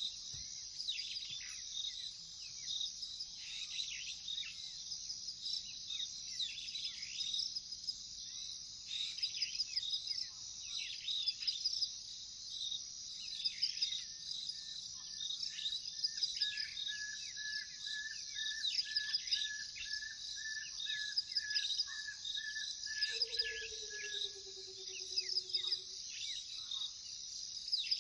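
Savanna night chorus: crickets trill steadily and high, while birds call over them in short, quickly falling notes. Through the middle there is a long, even, pulsing trill. Near the end a lower, drawn-out call slides slightly down in pitch for about three seconds.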